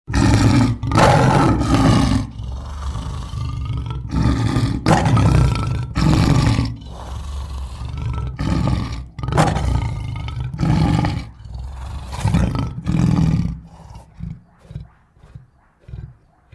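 Lion roaring in a bout: about a dozen deep, full roars one after another, trailing off near the end into a run of shorter, quieter grunts.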